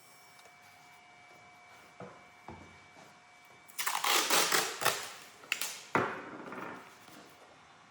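Steel knife blade being worked by hand: a couple of light clicks, then several loud rasping scrapes of metal against an abrasive, with a sharp knock between them.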